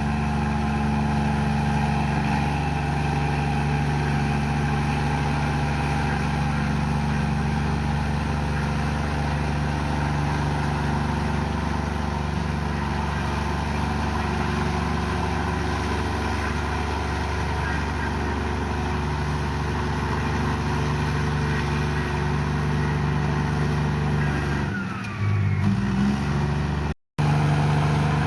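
Komatsu bulldozer's diesel engine running steadily while pushing mud, with a shift in engine note about 25 seconds in, then a moment of silence before it resumes.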